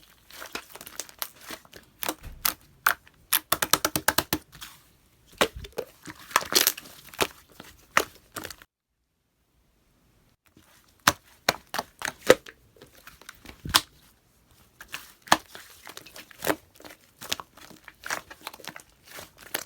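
Hands squeezing and poking slime, making dense sticky clicks and crackles. The sound stops for about two seconds in the middle, then starts again.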